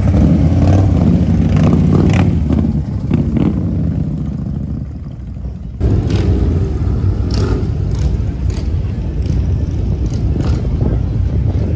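Motorcycle engines running in slow street traffic, a dense low rumble that eases off about four to five seconds in, then comes back loud suddenly about six seconds in as bikes pass close by.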